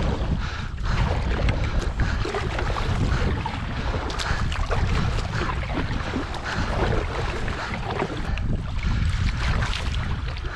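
Strong wind buffeting the microphone in a steady low rumble, with water sloshing and small crackling noises around a kayak.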